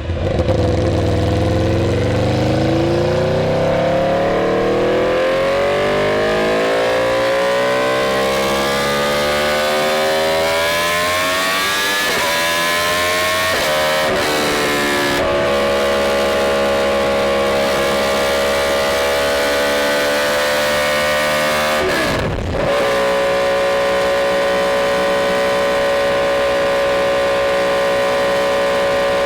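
Motorcycle engine accelerating, its pitch climbing steadily for about twelve seconds. It breaks briefly at gear changes around 14, 15 and 22 seconds in, then holds a steady high pitch at cruising speed.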